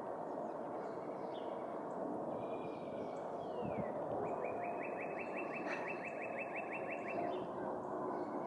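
A songbird singing: a few short phrases and a falling slur, then a steady trill of repeated notes, about five a second, lasting around three seconds. Steady outdoor background noise underneath.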